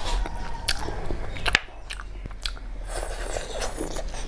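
Close-miked chewing of snail curry and rice, wet mouth sounds broken by sharp clicks, the loudest about one and a half seconds in.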